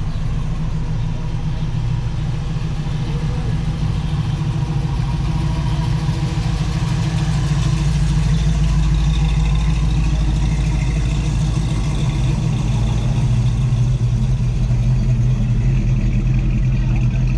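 A car engine running at idle, steady and low, growing louder about seven seconds in.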